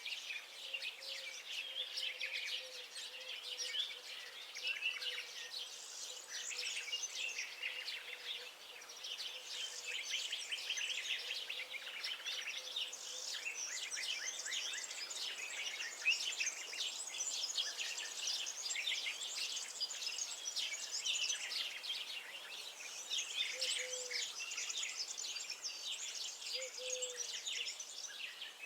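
Dense park bird chorus: many small songbirds singing and chirping at once, overlapping without pause, over a faint steady hum.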